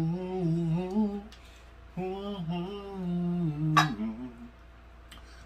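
A man humming a slow melody without words in long held notes, two phrases with a short pause between them. A single sharp click sounds near the end of the second phrase.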